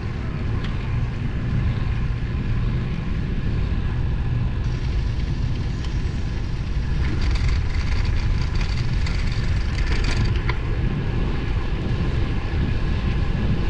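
Wind rumbling over the microphone and tyre noise from a road bike rolling along the road, with a steady low rumble. The hiss grows brighter for a few seconds past the middle.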